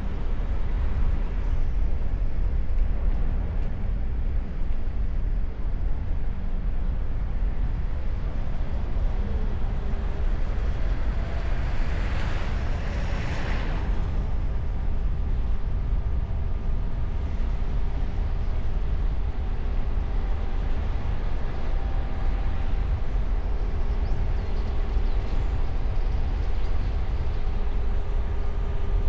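Car driving on the open road, heard from a bonnet-mounted microphone under a wind muffler: a steady low rumble of wind and tyre noise, with a louder rushing swell about twelve seconds in.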